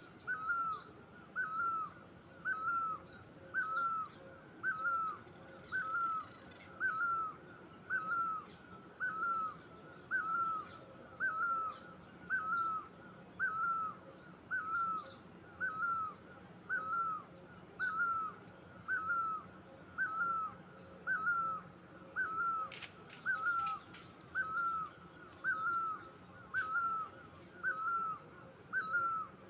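Birdsong: one bird repeats a short, hooked call evenly about once a second, while other small birds chirp in higher, quicker bursts every few seconds.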